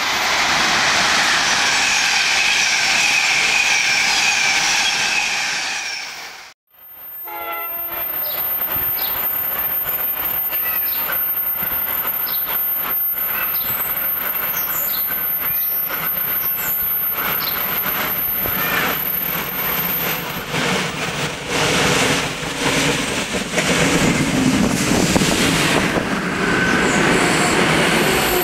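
Trains on the Northeast Corridor: first a train running by with a steady rush of noise. After a cut, a brief horn sounds and an NJ Transit commuter train pulls in along the platform, its wheels clattering and squealing, the noise growing louder near the end.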